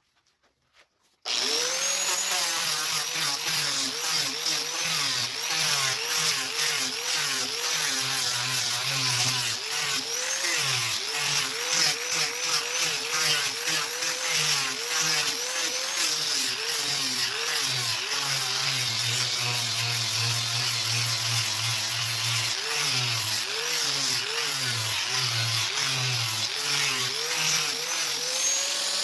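Electric woodworking power tool motor running on the roxinho (purpleheart) wood. It cuts in abruptly about a second in, and its pitch dips and recovers again and again as the load on it changes.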